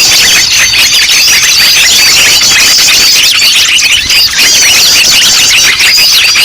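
A dense chorus of many small songbirds chirping and twittering at once, a loud, unbroken mass of overlapping high, quick calls: a noisy mixed-bird lure recording of the kind used to attract wild birds.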